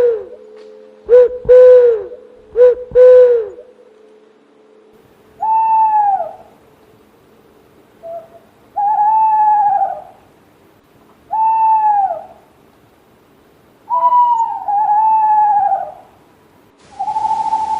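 Owl calls from two recordings. First a few short, loud hoots that drop in pitch, then a higher-pitched owl giving longer, falling calls about every three seconds. A steady, held whistle-like note starts near the end.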